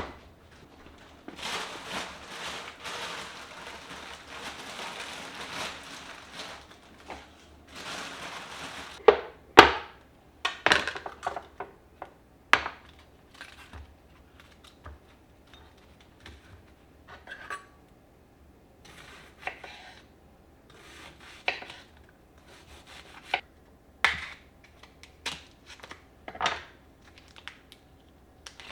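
Household handling sounds: several seconds of rubbing and rustling, then a string of scattered sharp knocks and clacks of objects set down or struck, the loudest about nine and a half seconds in.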